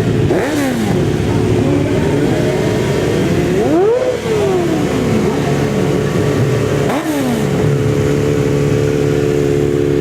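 Racing motorcycles passing at speed, three times: about half a second, four seconds and seven seconds in, each engine note climbs and then falls away. A steady hum runs underneath.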